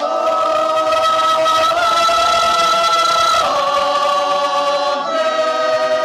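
Church choir singing a liturgical response a cappella, holding long sustained chords that change about three and a half seconds in and again near five seconds.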